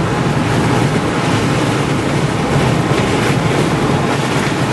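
Steady rush of road and wind noise inside a moving vehicle.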